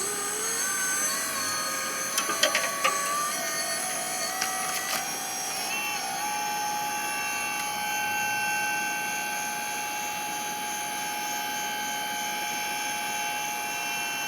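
Whine of a radio-controlled model's electric drive motor. Its pitch shifts up and down during the first few seconds, then holds steady, with a few sharp clicks about two to three seconds in.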